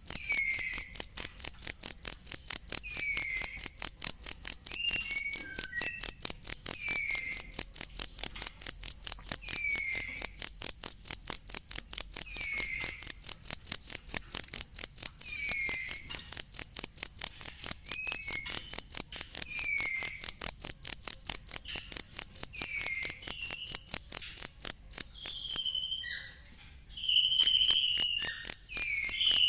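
Cricket chirping in a rapid, even, high-pitched pulse, the kind of recording used as song-training material for cage birds; it breaks off for about a second near the end, then starts again. Fainter falling whistles sound every few seconds underneath.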